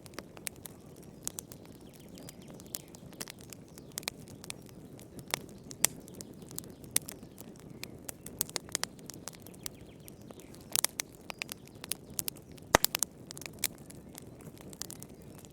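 Wood fire crackling: irregular sharp pops and snaps over a low, steady rumble of burning, with the loudest pop coming near the end.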